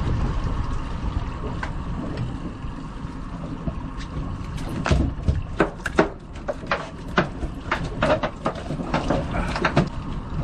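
Steady low rumble of the boat's motor and wind, then, from about halfway through, a rapid run of sharp knocks and slaps as a hooked fish is brought aboard.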